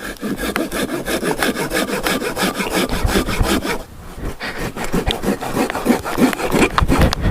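Silky BigBoy 2000 folding pruning saw cutting through a downed tree, in rhythmic back-and-forth strokes on the wood, with a brief pause about four seconds in.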